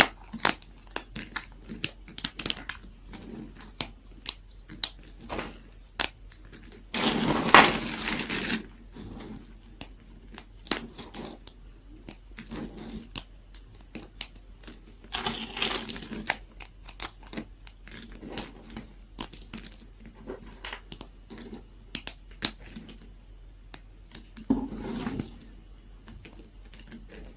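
Very dry leftover soap being cut and crumbled with a knife: a run of sharp, irregular cracks and snaps, with a few longer crunching passes, the loudest about seven to eight and a half seconds in.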